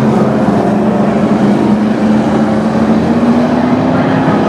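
Race vehicle engines running hard at high revs, with one steady engine note slowly climbing in pitch over the general din of the field.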